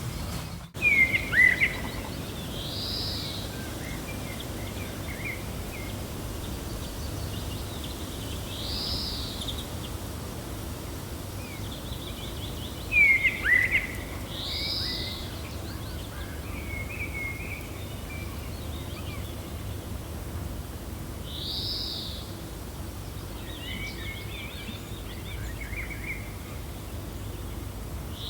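Birds chirping over a steady wind rush. One bird repeats a short arching call about every six seconds, and louder quick falling chirps come twice, about a second in and again near the middle.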